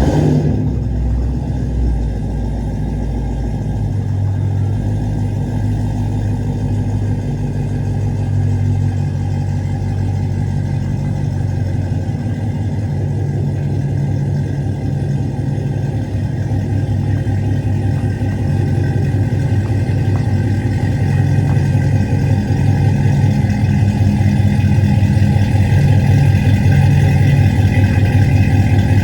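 2011 Cadillac CTS-V's supercharged 6.2-litre V8 running steadily at idle through a new 3-inch exhaust with a Flowmaster muffler, a deep, even rumble with a regular pulse.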